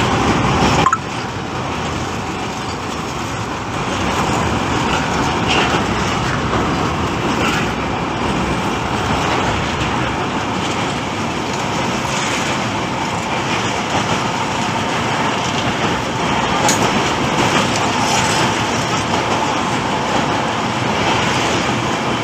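Steady running noise of a moving passenger train, with a sudden drop in level and change in sound about a second in.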